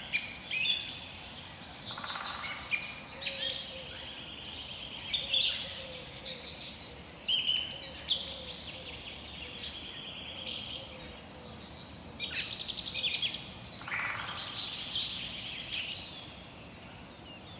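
Songbirds singing: a dense chorus of quick, high chirps and rapid down-sliding trills, repeated over and over above a faint steady background hiss.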